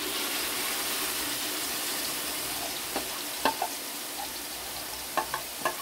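Hot oil sizzling steadily in a large aluminium pot as curry masala paste is poured onto frying onions, with a few light taps and clicks about three seconds in and near the end.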